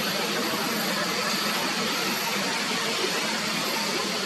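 Jet airliner engines running, a steady rush with a faint high whine that holds level throughout.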